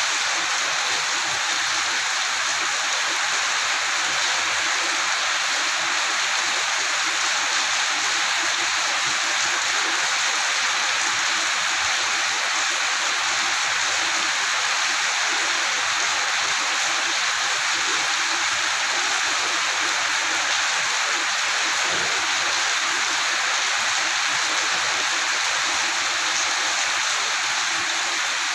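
Heavy rain pouring down in a steady, even hiss that doesn't let up.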